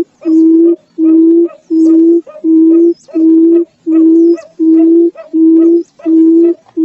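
Barred buttonquail calling: a steady series of low, even hoots, each about half a second long, about ten in a row at roughly one and a half per second. Faint high chirps from other birds sound above it.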